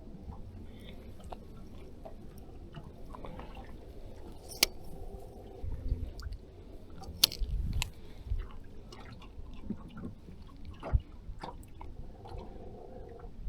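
Quiet handling noises: scattered small clicks and a few soft low thumps, the loudest clicks about 5 and 7 seconds in.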